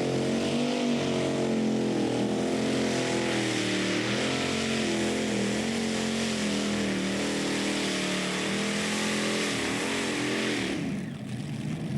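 Pulling-tractor engine running hard at high revs under load, its pitch wavering up and down, with a loud rushing exhaust noise; it cuts off abruptly about eleven seconds in.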